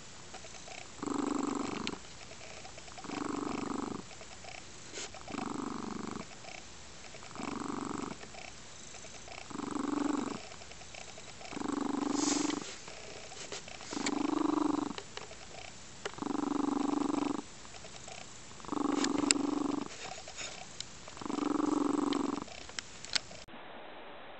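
Domestic cat purring close up, in regular surges about every two seconds as it breathes.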